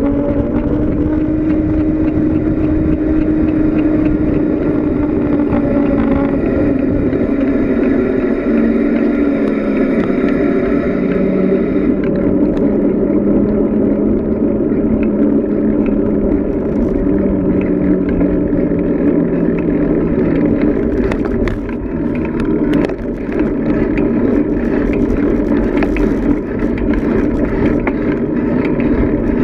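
Steady rushing wind and road noise from a downhill bicycle ride, with a humming tone that slowly drifts lower over the first twenty seconds.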